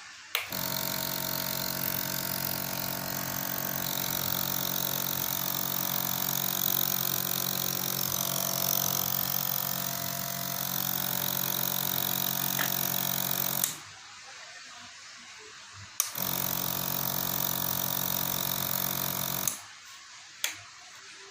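Piston-compressor nebulizer running with a steady hum. It switches on with a click, runs about 13 seconds and stops, then runs again for about three and a half seconds and stops.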